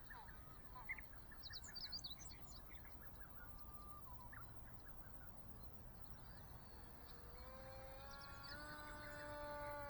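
Small birds chirp a few times in the first three seconds. From about seven seconds in, a faint, even whine rises slightly and then holds steady: the RCX NK1103 brushless motor and 3-inch propeller of a sub-100 g electric RC model plane in flight.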